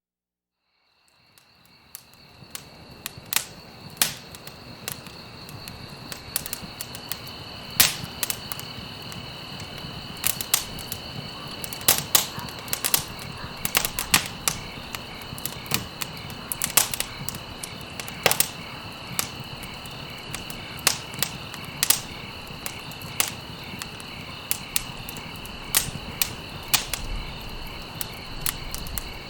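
Campfire crackling, with sharp pops every second or so over a low steady hiss of burning. A steady high cricket trill runs behind it. The sound fades in from silence over the first two seconds.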